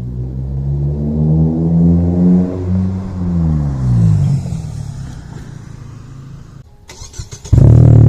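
Mazda Protege5's four-cylinder engine through a new 2.5-inch exhaust with a Greddy RS muffler, accelerating with its note rising, then falling in pitch and fading away as the car moves off. After a short break, a much louder, steady exhaust note starts abruptly close by near the end.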